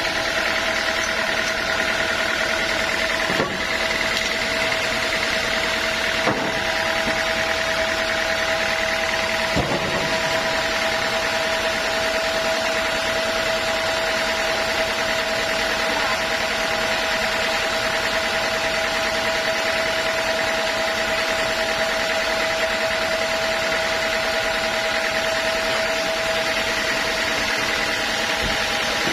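Sawmill saw machinery running steadily, a dense mechanical noise with a constant whine. A few short knocks come in the first ten seconds.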